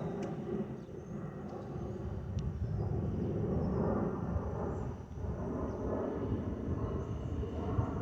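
Boeing 737-900ER jet airliner's CFM56-7B turbofan engines, a steady low rumble that swells and eases a little.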